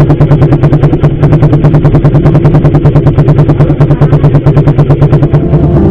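Suzuki Satria F150's single-cylinder four-stroke engine idling loudly through an aftermarket racing exhaust, with a steady, rapid exhaust pulse of about ten beats a second.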